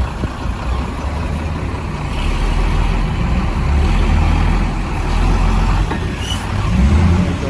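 Old Ford F-Series truck's engine running, growing louder about two seconds in and staying up until near the end.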